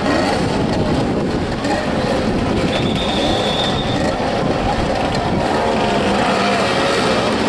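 Several motorcycle engines running and revving, their pitches wavering up and down over one another.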